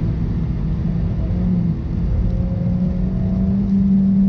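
2018 Suzuki Swift Sport's turbocharged Boosterjet four-cylinder engine pulling under throttle, heard from inside the cabin. Its note dips briefly just under two seconds in, then climbs slowly in pitch, over a steady rumble of tyre and road noise.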